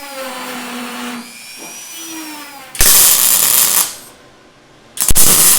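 Two bursts of MIG welding, about a second each and about two seconds apart, as plug welds are laid on 18-gauge sheet steel; the plug holes are too small, and the welds are starting to blow out the ends of the plugs. Before them, a quieter whine dips and rises in pitch.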